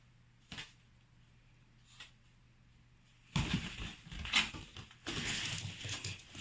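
A small dog, a Chihuahua, making loud, irregular noisy sounds close by, starting about three seconds in, after a quiet start broken by two faint clicks.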